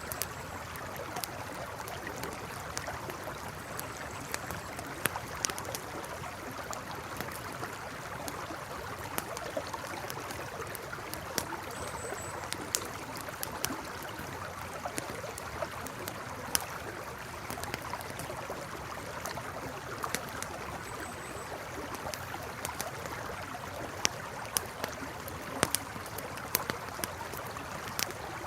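A river flowing steadily with a campfire crackling over it: sharp wood pops and snaps scattered irregularly, coming more thickly near the end.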